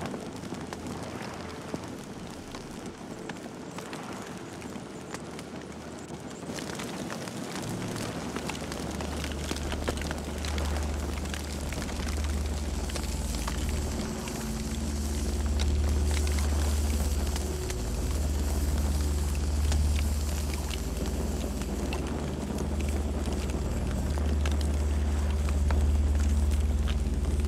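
Campfire burning, with many sharp crackles and pops over a steady hiss. About eight seconds in, a deep low rumble comes in and the whole sound grows louder.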